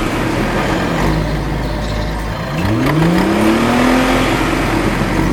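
Motor of a miniature tractor revving up: a steady low hum, with the engine pitch rising and levelling off once, a little past halfway.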